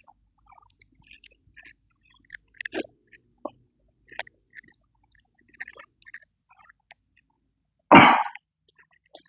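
A person coughing once, loudly and briefly, about eight seconds in, after a stretch of faint scattered clicks and rustles.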